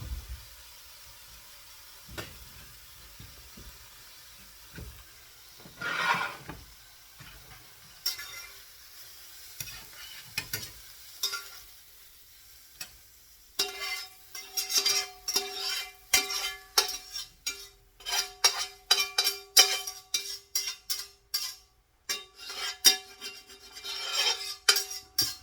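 Metal utensil scraping and knocking against a ringing frying pan, a few scattered strokes at first, then quick strokes several a second from about halfway, as the finished omelette is worked out of the pan.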